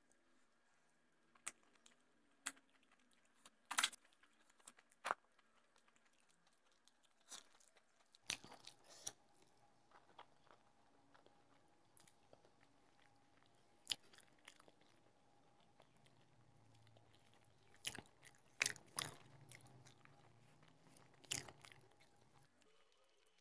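Close-miked eating sounds of a person chewing a meal of fish and rice: scattered sharp wet mouth clicks and smacks at irregular intervals, with faint sounds of fingers picking at the food.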